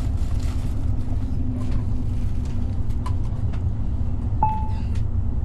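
Steady low rumble of a passenger train heard from inside the carriage while it is still running toward a station, with a faint hum and a few light ticks. A short beep sounds about four and a half seconds in.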